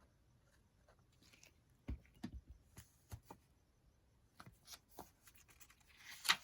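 Paper journal pages being handled and shuffled, with a few light knocks on the desk about two and three seconds in and a louder rustle of paper near the end.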